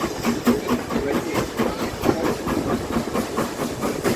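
Steam locomotive working hard, its exhaust beats coming as a rapid, even chuffing of about five a second over a steady hiss.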